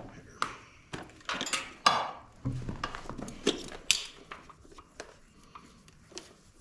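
Irregular metallic clinks and knocks as jump-starter clamps and cables are handled at the tractor, with a dull thump about two and a half seconds in.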